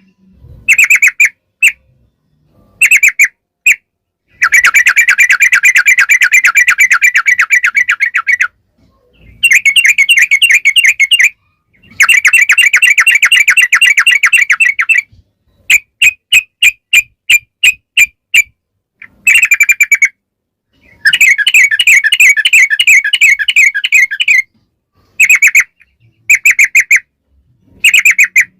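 Yellow-vented bulbul (trucukan) singing: short bubbly phrases alternate with long, rapid rolling trills lasting a few seconds each, separated by abrupt silences.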